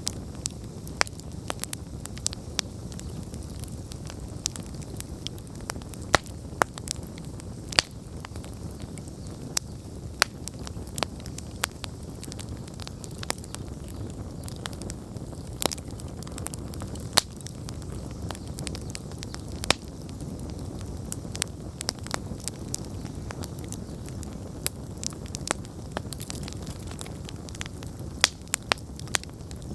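Wood campfire burning: a steady low rush of flames with frequent sharp crackles and pops, several a second, some much louder than the rest.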